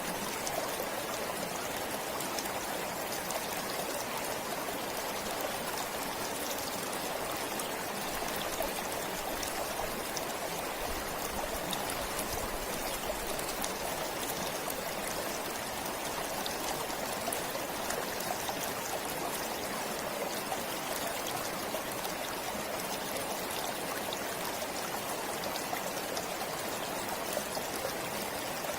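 A forest stream flowing steadily, an even rush of water with fine trickling and splashing over it.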